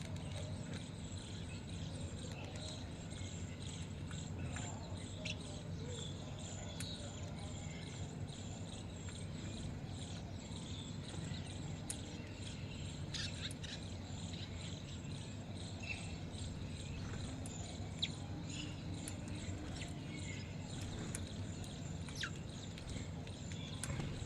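Small birds giving scattered short, high chirps over a steady low background hum.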